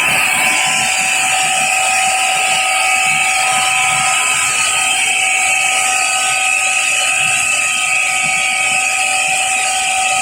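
BAC 50 hp rotary screw air compressor running steadily: a constant whine of several held tones over a loud even hiss.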